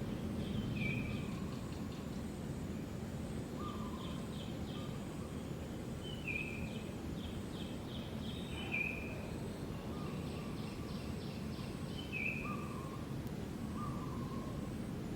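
Birds calling against a steady outdoor background hum: short whistled notes repeated every few seconds, with quick trills of rapid pulses in between.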